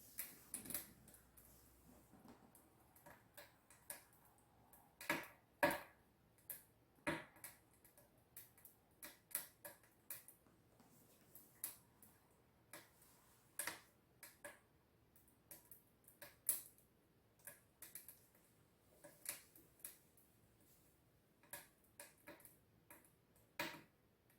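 Wood-burning stove heating up: faint, irregular sharp ticks and pops, roughly one or two a second, from the fire burning inside the closed firebox and the stove's steel body warming.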